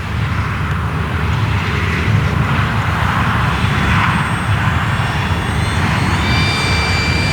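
Radio-controlled model airplane making a slow low pass: a rushing noise that swells to its loudest about four seconds in, then a whine that rises in pitch near the end.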